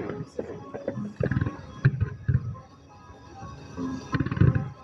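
Music played for a fireworks display, under a series of low, rumbling booms from fireworks going off.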